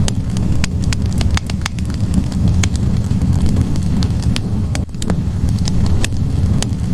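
Wood logs burning in a fireplace: irregular sharp crackles and pops, about two a second, over a steady low rumble of the fire.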